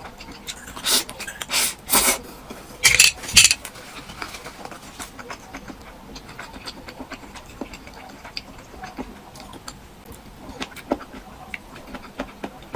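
Close-miked mukbang eating sounds: five loud, noisy bites or slurps in the first few seconds, then soft, quick chewing clicks.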